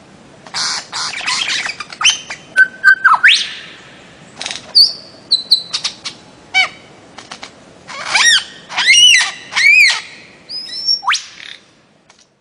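Bird-of-paradise calling: a run of harsh squawks and sharp whistled notes, then three loud arched calls that rise and fall, and a quick upward whistle near the end.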